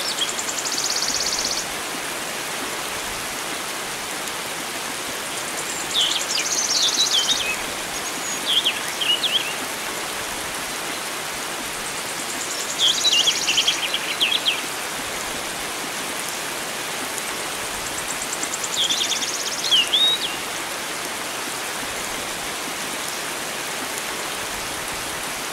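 Steady rush of flowing water, with a songbird singing over it. The bird repeats a short phrase about every six seconds: a high buzzy trill followed by a few quick chirps.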